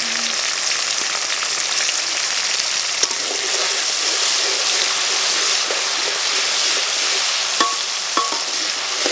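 Sliced onions and spices frying in hot oil in a wide aluminium karahi, a steady sizzle, with a metal spatula stirring in the pan. Two short squeaks sound near the end.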